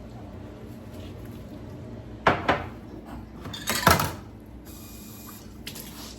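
Kitchenware being handled: two short clatters of hard dishes or pans knocked and set down, about two seconds and four seconds in, followed by a brief soft hiss.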